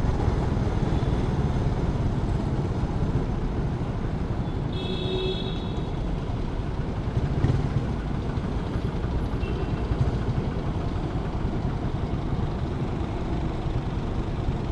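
Suzuki Raider 150 carbureted single-cylinder motorcycle engine running under way, mixed with steady wind noise on the microphone. A brief high-pitched tone sounds about five seconds in.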